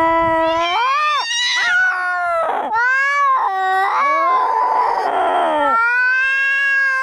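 Cat yowling: long, drawn-out wails that rise and fall in pitch, turning rough and raspy for a stretch a little past the middle before settling into a steadier yowl. This is the threatening caterwaul of a cat squaring off for a fight.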